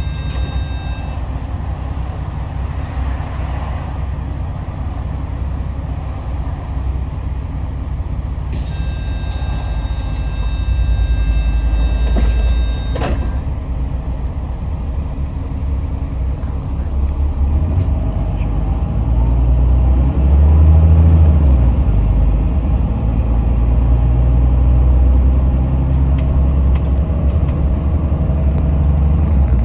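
Steady low engine and road rumble inside a Yutong ZK6128HG diesel city bus under way. The engine note swells and shifts in pitch about two-thirds of the way through. A steady high electronic tone sounds briefly at the start and again for about four seconds about a third of the way in, ending with a sharp click.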